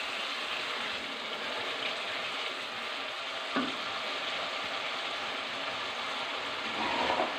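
Thick tomato-onion masala sizzling steadily in oil in a nonstick kadai, fried to the stage where the oil has separated and risen to the top. One short spatula stroke is heard about three and a half seconds in.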